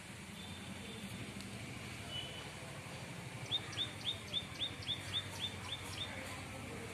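A bird calling a quick run of about ten short, high, repeated notes, about four a second, starting about halfway through, over a steady low background rumble.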